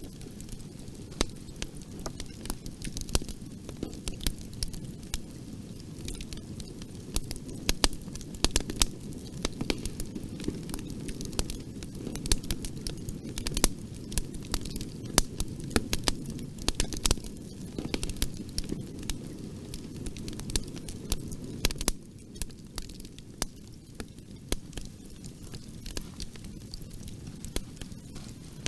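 Fireplace fire crackling: irregular sharp pops and snaps over a steady low rumble of flame. About 22 seconds in, the low rumble drops a little quieter.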